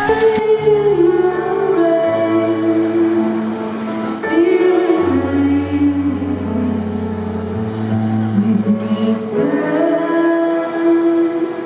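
A woman singing a slow song with long held notes over a backing of guitar and bass.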